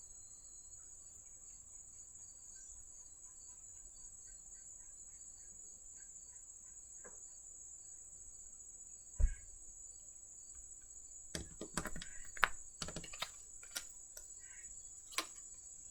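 Tarot cards being handled: a single soft knock, then a run of sharp clicks and snaps as cards are drawn and laid down, over a steady faint high-pitched hiss.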